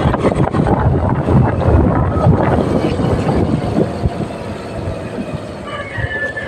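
Motorcycle ride: engine and road rumble with wind buffeting the microphone, easing off somewhat about four seconds in.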